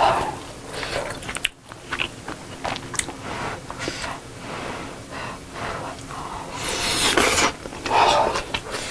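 Close-miked eating of Korean army stew (budae jjigae) with rice: wet chewing and mouth clicks, with a wooden spoon scooping rice at the start. About seven seconds in comes a loud breathy blow of air, as if from a mouthful of hot food.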